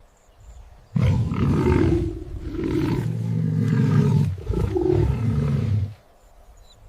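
A big cat roaring and growling: a loud, low, rumbling call starts about a second in, breaks briefly partway through, and stops about a second before the end.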